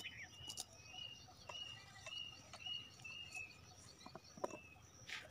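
Faint outdoor ambience: short, high chirps repeated about twice a second over a steady faint insect hum, typical of a bird calling among the trees, with a few light clicks.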